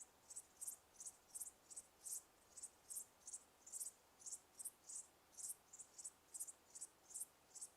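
Insects chirping: short, high-pitched chirps repeating steadily at about three a second, faint.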